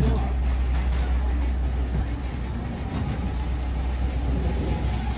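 Steady low rumble of an excursion train, running evenly with no sudden events.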